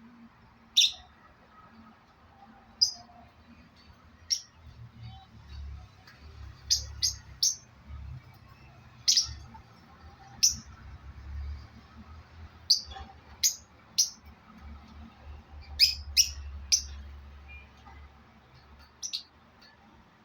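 Parrot giving short, sharp, high-pitched chirps, about fifteen single calls and quick pairs scattered irregularly over the stretch.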